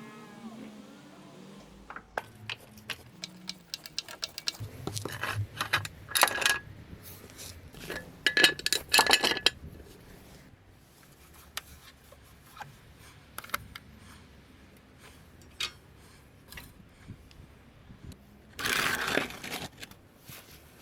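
Metal objects clinking and clattering in several short spells, with scattered sharp clicks between them.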